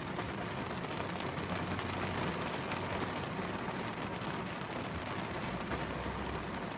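Heavy downpour drumming on a car's windshield and roof, heard from inside the car: a dense, steady patter of drops.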